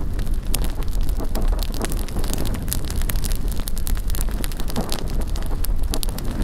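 Large bonfire crackling with many sharp, irregular pops, under a steady low rumble of wind buffeting the microphone.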